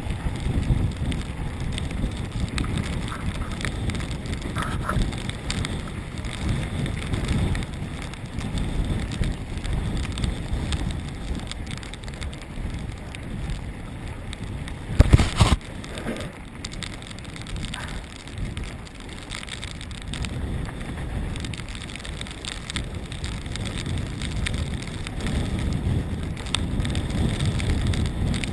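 Mountain bike descending a rough trail, with continuous tyre and rattle noise and wind on the microphone. A single sharp knock is heard about halfway through.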